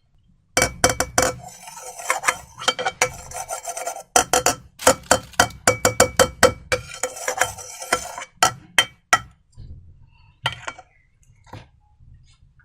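Slime being worked by hand: rapid, sticky clicking and crackling as it is squeezed and stirred, starting about half a second in and thinning to a few scattered clicks near the end.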